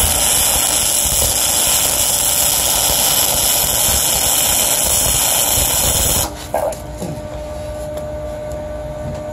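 Flux-core wire-feed arc welding on thick mild steel plate with a 120-volt welder: a loud, steady hiss of the arc that stops suddenly about six seconds in, leaving a quieter steady hum.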